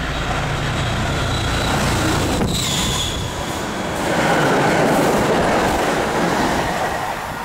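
MBTA commuter train passing a station platform at speed, its wheels and cars rushing by close at hand. The rumble of the approach grows to its loudest about four seconds in as the cars go past, then eases off near the end.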